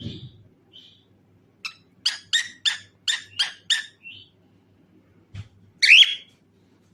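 Cockatiel calling: a few short chirps, then a quick run of about seven sharp chirps, then one loud call that falls in pitch near the end, with a soft thud or two.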